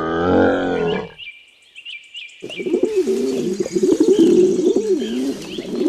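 A camel's low, pitched bellow ends about a second in. After a short pause, pigeons coo over and over in a rolling, repeated pattern, with faint chirps from small birds behind.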